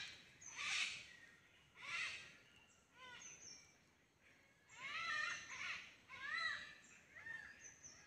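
A bird calling repeatedly in bouts of short calls, each rising then falling in pitch, about a second or so between bouts. A thin, high, steady tone comes and goes between them.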